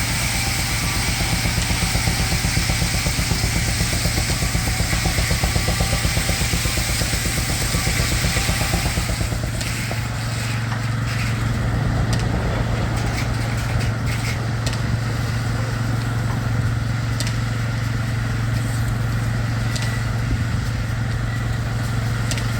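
Baker 23-90 uniflow steam traction engine working hard under load, its exhaust beating fast and evenly at the stack. Over it for the first nine seconds or so is the hiss and whine of the Frick sawmill's blade cutting through a log, which drops away, leaving the engine's exhaust beat running on.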